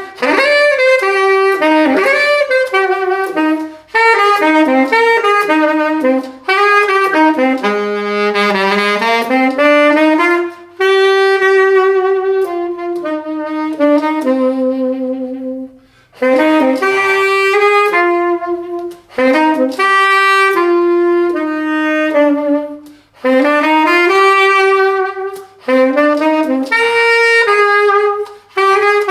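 Solo saxophone playing a slow melody, one line of notes in phrases with short pauses between them.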